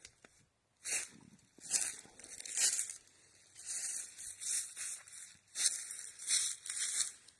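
Footsteps crunching and rustling through dry fallen leaves on a woodland floor, one step after another, a little under a second apart.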